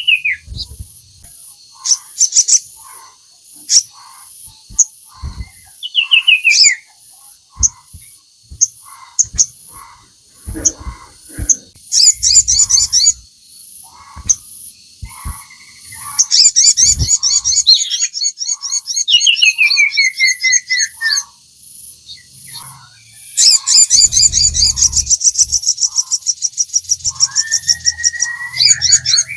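Sogon songbird singing: rapid high rattling trills alternate with falling whistled notes, short sharp chips and repeated lower notes. Long loud trill bursts come in about halfway through and again near the end.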